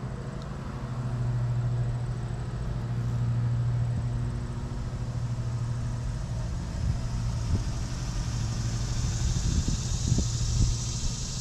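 Steady low engine hum of a vehicle, swelling a little early on, with a hiss building over the last few seconds.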